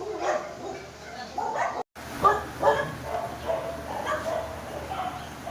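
Several puppies whining and yipping in many short, overlapping cries. The sound drops out completely for an instant just before two seconds in.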